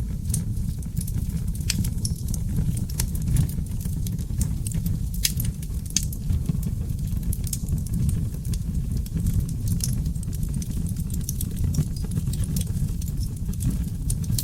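Wood fire of oak logs burning in a fireplace: a steady low rumble of flames with frequent irregular crackles and sharp pops.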